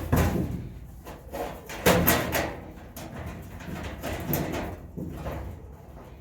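Irregular clunks and scraping of sheet metal panels being handled and fitted in a truck cab. The sharpest knocks come at the start and about two seconds in.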